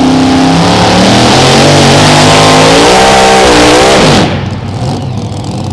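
Mini rod pulling tractor's engine running flat out under load, its pitch wavering and climbing as it pulls, then the throttle is chopped about four seconds in and the engine drops off sharply to a low run.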